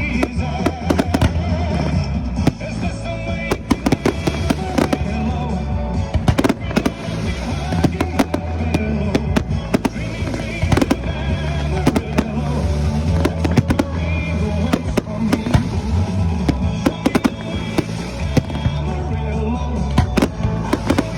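Fireworks going off in frequent, irregular bangs and crackles, over loud music with a singer.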